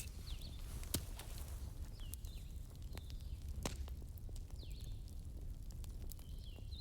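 Wood fire crackling in a fireplace: scattered sharp pops and snaps, the loudest about a second in, over a steady low rumble, with faint high chirps now and then.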